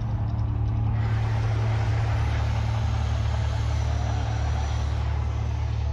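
Deep, steady rumble of the Mirage volcano show's eruption effects, with a rushing noise above it that swells about a second in.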